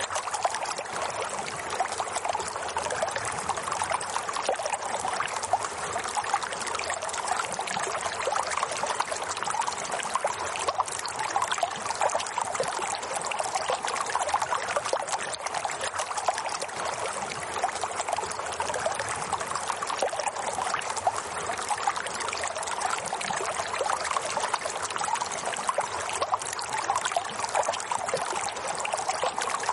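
Running water, trickling and splashing steadily without change.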